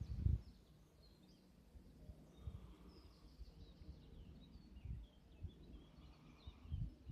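Faint birdsong, with several small birds chirping in short high notes, over a quiet outdoor hush. Occasional low thumps are heard, the loudest right at the start.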